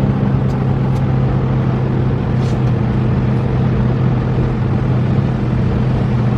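An 18-wheeler's diesel engine running at a steady speed while driving, heard from inside the cab as an even low hum over road rumble.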